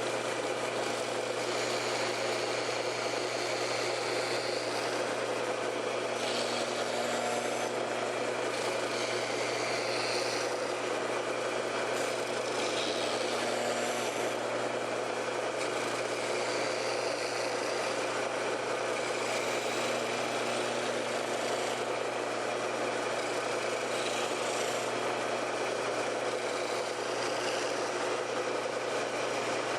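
A 6x48 belt sander's motor and belt running steadily, with the hiss of wood being sanded into an arc coming and going as pieces are worked against the belt.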